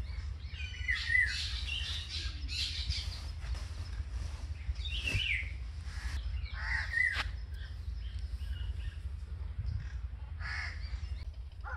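Birds calling outdoors: a scatter of short, harsh calls every second or two, over a steady low rumble.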